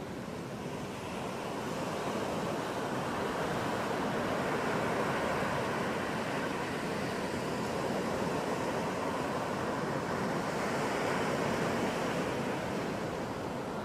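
Ocean waves washing onto a beach: a steady surf rush that swells gently and eases off near the end.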